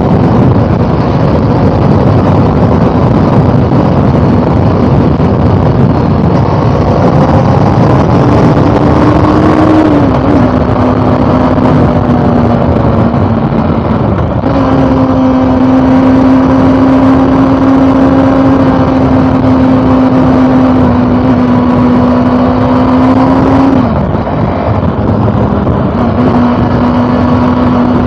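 Honda CB400 Super Four Revo Hyper VTEC's inline four-cylinder engine running at steady revs under way, over a steady rushing noise. Its pitch dips about ten seconds in and steps back up a few seconds later. It drops briefly near the end, then settles again.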